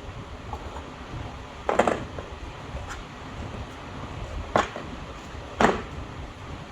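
Three sharp, hard knocks of brake parts and tools being handled during a brake pad change: one about two seconds in with a short rattle after it, then two more close together near the end. A steady low hum runs underneath.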